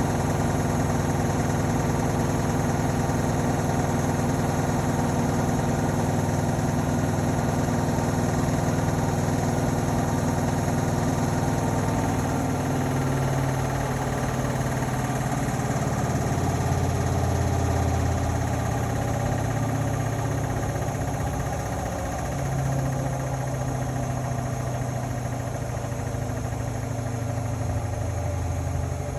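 Indesit Innex BWE 91496X washing machine spinning: a steady motor hum and drum vibration. About twelve seconds in the low hum drops in pitch and keeps shifting as the spin speed changes.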